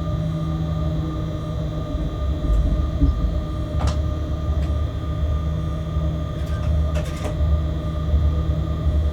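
Freight train heard from inside the locomotive cab: a steady low rumble with constant electrical hum tones, and two brief clicks, about four and seven seconds in.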